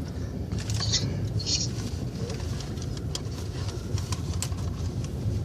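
Freight train cars rolling past: a steady low rumble of wheels on rail, with scattered light clicks and rattles.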